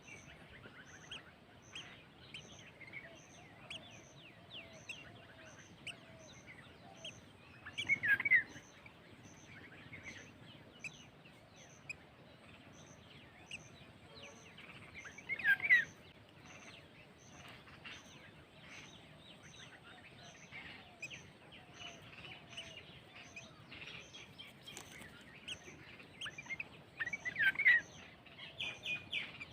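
Birds calling outdoors: a steady scatter of small chirps and warbles, with three louder calls that sweep downward, spaced several seconds apart. A faint high pulse repeats evenly about twice a second underneath.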